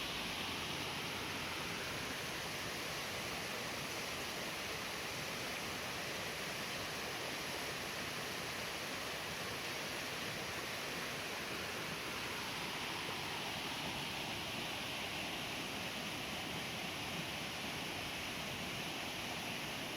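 Mountain stream rushing steadily, an even hiss of flowing water.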